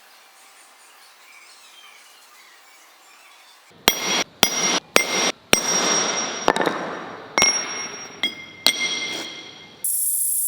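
Steel parts struck or knocked together about ten times in quick succession, each strike ringing with a bright metallic tone. A steady high hiss starts near the end.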